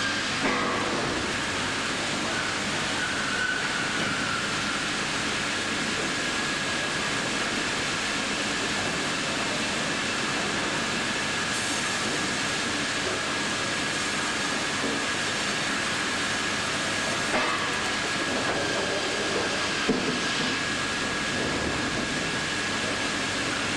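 Industrial bandsaw line machinery running steadily, a constant mechanical noise with a high steady whine over it, and a few short knocks.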